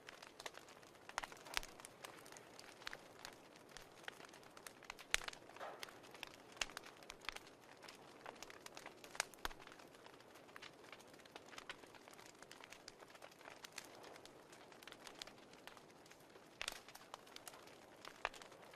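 Faint crackling of a wood fire: irregular pops and snaps over a soft, steady hiss.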